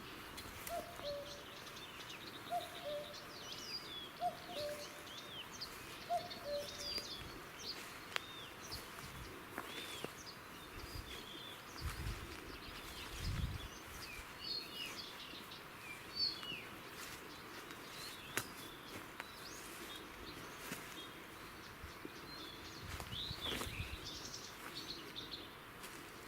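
Outdoor birdsong: many small birds chirping and trilling, with a low two-note call, the second note lower, repeated four times about two seconds apart in the first seven seconds. There are a couple of low thuds near the middle.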